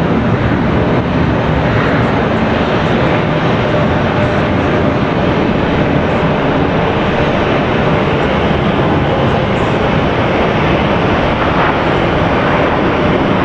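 Jet airliner engines running loud and steady: a continuous even rush of noise with a faint steady whine in it.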